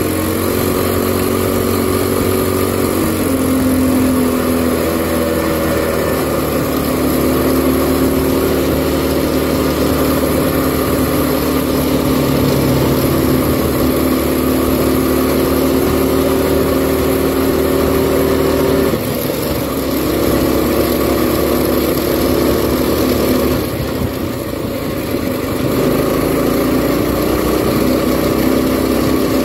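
Minibike's small engine running hard with its governor bypassed by a zip tie, its pitch rising and falling as the throttle changes, with two brief drops in revs in the last third.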